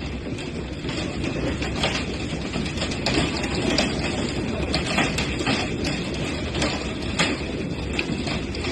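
Hailstorm: a dense, steady downpour with hailstones striking hard surfaces in many irregular sharp clicks and cracks.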